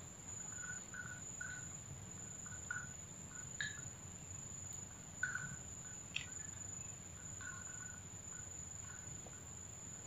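Faint short bird chirps, scattered about once a second with a couple of sharper higher calls, over a steady high-pitched insect drone.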